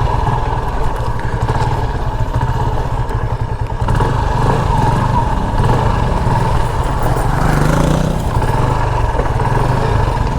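Motorcycle engine running as it is ridden, with a steady low drone; the engine note rises briefly about three-quarters of the way through.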